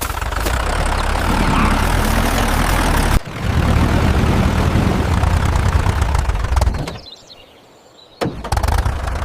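An engine running with a heavy low rumble, dipping briefly about three seconds in and stopping about seven seconds in; a few short knocks follow near the end.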